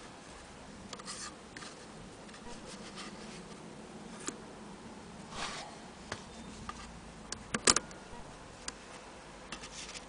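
Scattered light clicks, taps and rubbing, with a sharper double click about three-quarters of the way through.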